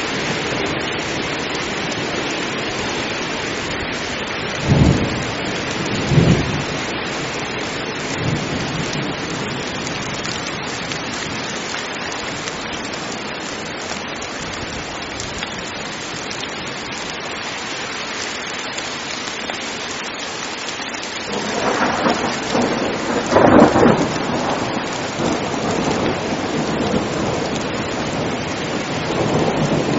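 Heavy rain falling steadily, with short rumbles of thunder about five, six and eight seconds in and a longer, louder thunderclap rolling a little past twenty seconds in.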